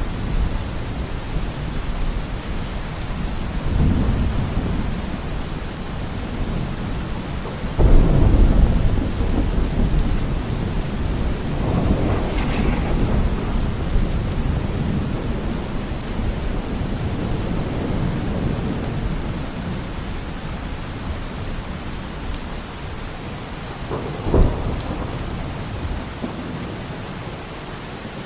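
Steady heavy rain with rolling thunder. A rumble builds about four seconds in, a louder clap breaks out about eight seconds in and rumbles away over several seconds, and a short sharp crack comes near the end.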